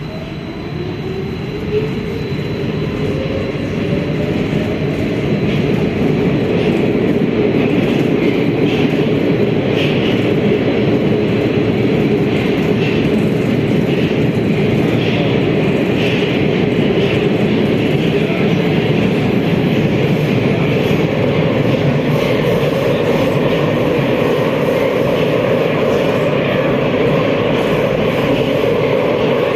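Metro train pulling away and running between stations, heard from inside the carriage: the traction motors' whine rises in pitch over the first few seconds. The running noise then grows louder and settles into a steady rumble.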